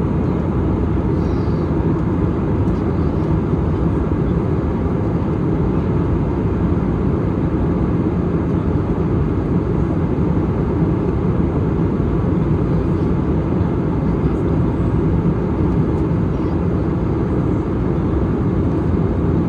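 Steady low cabin noise of an airliner in flight, the engines and rushing air heard from inside the cabin.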